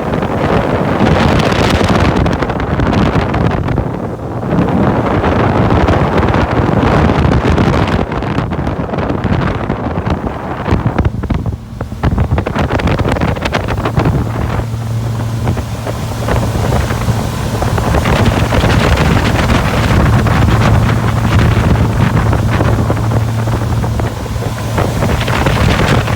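2012 Hurricane 2400 deck boat running under power, its engine a steady low hum that grows plainer about halfway through, with heavy wind buffeting the microphone and water rushing along the hull.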